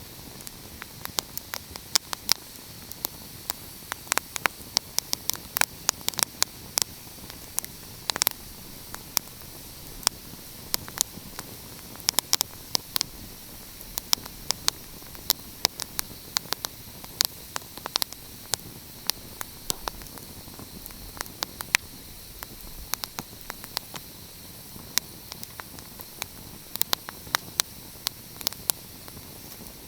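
Wood fire crackling: irregular sharp pops and snaps, several a second, some much louder than others, over a steady hiss.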